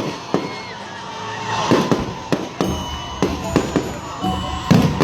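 Fireworks display: a string of sharp bangs at irregular intervals, about eight of them, with music playing in the background.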